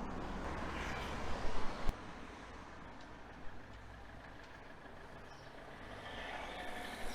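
Road traffic: a motor vehicle's engine hum passes and fades after about two seconds, and another vehicle's noise builds near the end.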